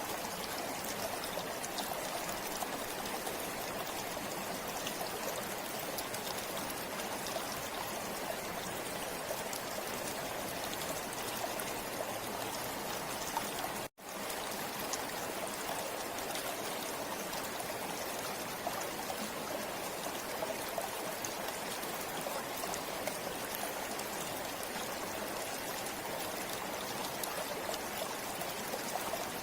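River water flowing in a steady, even rush. It cuts out to silence for an instant about halfway through.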